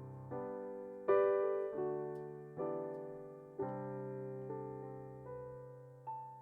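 Solo piano playing slow chords, roughly one a second, each struck and left to ring and fade.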